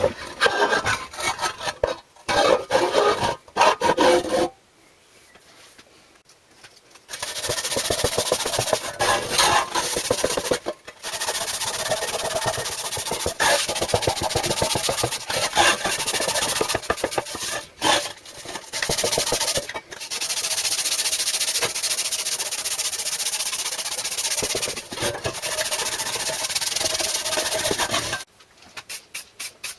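Fast, repeated rubbing and scraping strokes against a hard surface: a few seconds of short scrubbing bursts, a pause, then a long stretch of steady back-and-forth rubbing that stops a couple of seconds before the end.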